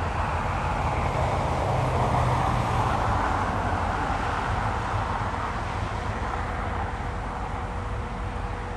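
Distant jet aircraft noise at an airport: a wide rumble that swells to a peak about two seconds in, then slowly fades.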